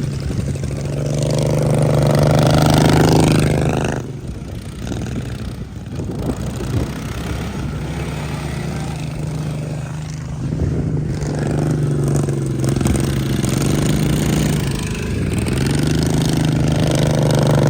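Racing riding lawn mower engines running hard. The drone swells and rises in pitch as a mower accelerates past, drops away sharply about four seconds in, then builds again near the end.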